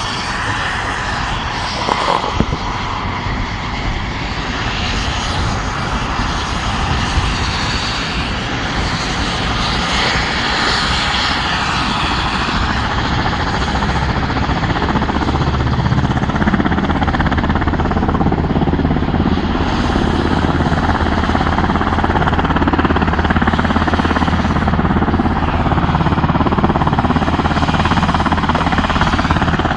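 Turbine aircraft engine running, growing gradually louder, with a steady low hum setting in about halfway through.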